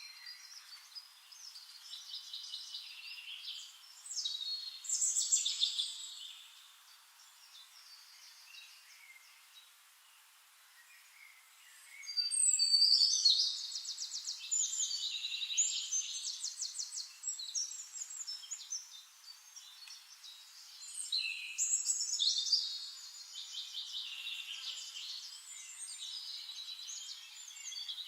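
Birds singing in bouts of high, quick trilling and chirping phrases, with a quieter lull in the middle before the song picks up again.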